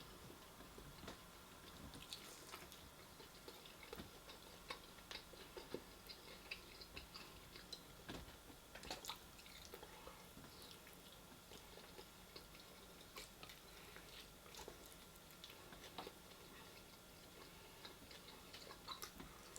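A person chewing and biting food close to the microphone, with faint, irregular mouth clicks and small crunches as he bites at meat on the bone.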